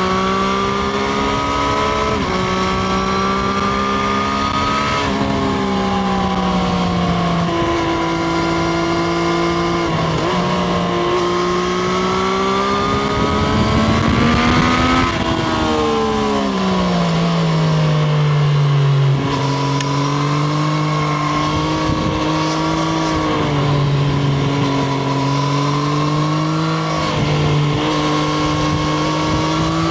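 Triumph Street Triple RS's inline three-cylinder engine pulling under way, its note stepping up and down through gear changes. It climbs to a peak about halfway through, then drops back and runs on at a lower, varying pitch.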